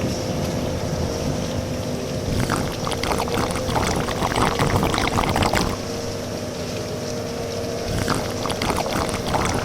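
Rain falling and splashing, with denser spells of pouring, splattering water about two and a half seconds in and again near the end, over a faint steady hum.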